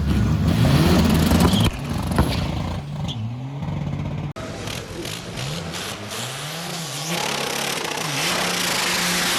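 Car engine revving, its pitch rising and falling again and again, with an abrupt cut about four seconds in to a second stretch of revving that settles into a steady note near the end.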